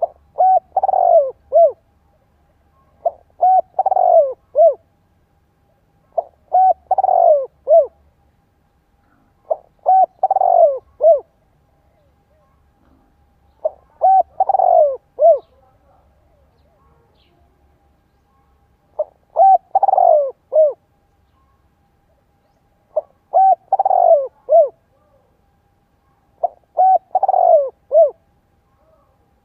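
Spotted dove cooing over and over: about eight phrases, each a few quick notes and a longer, falling one, repeated every three to four seconds. It is the vigorous 'thúc gù' cooing that dove keepers play as a decoy to provoke wild males.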